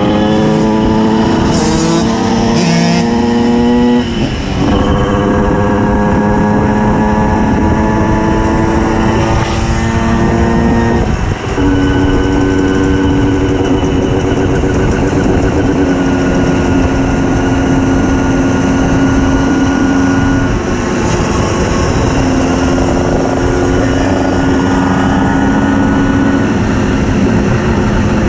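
Tuned 90 cc reed-valve two-stroke engine of a Simson S51 moped, revving up through the gears with a shift about four seconds in and another about eleven seconds in, then running at a mostly steady speed.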